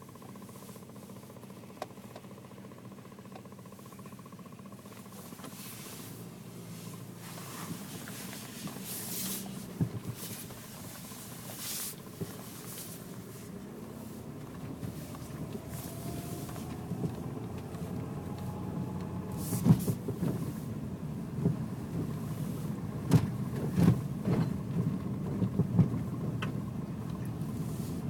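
A car being driven, its engine and road rumble slowly growing louder, with sharp knocks from the car coming several times in the second half as it goes over bumps in the road.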